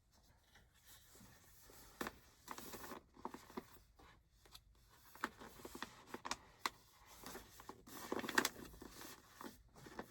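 Soft, irregular rustling and light knocks of yarn skeins being handled and pushed onto a shelf, busiest near the end.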